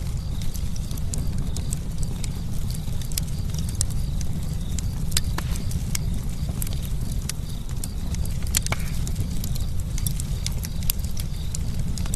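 Campfire crackling: irregular sharp pops and snaps scattered over a steady low rumble of the flames.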